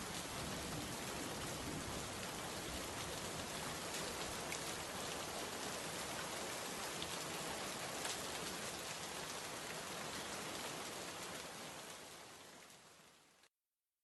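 Steady rain falling on a surface, an even hiss with scattered drop ticks. It fades out over the last two seconds and then cuts off to silence near the end.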